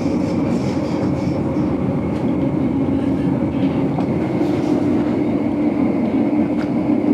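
Steady running noise of a train heard from inside a passenger carriage: an even rumble of the wheels on the rails, with a faint steady high tone and a few light clicks.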